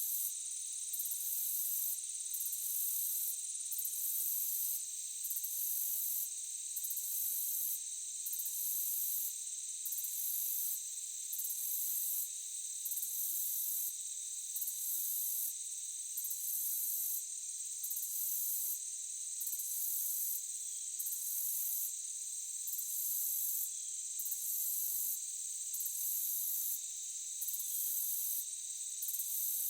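Chorus of forest insects: a steady high-pitched trill, with a still higher pulsing chirp that repeats about once a second.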